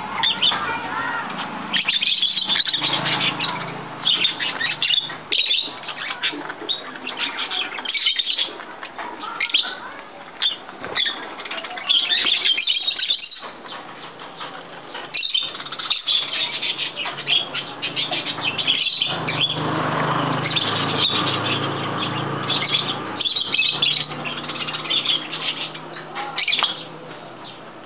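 A crowd of birds chirping and calling continuously, with wings flapping now and then.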